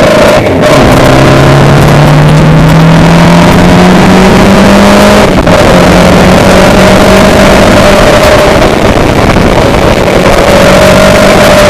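A motor vehicle's engine running loud under heavy noise, its tone rising slowly as it accelerates, with a brief break about five seconds in before it holds steady.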